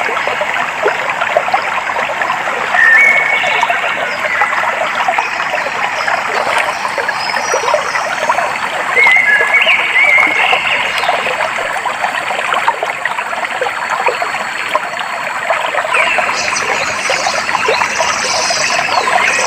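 A shallow stream babbling and trickling steadily over stones, with a few short whistled bird calls over it.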